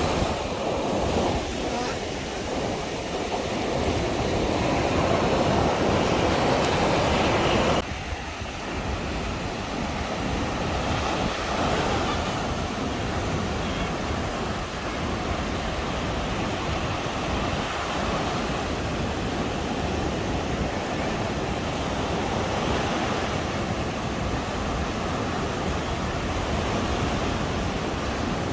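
Caribbean surf washing onto a sandy beach, with some wind on the microphone. The sound drops suddenly about eight seconds in, then carries on steadily.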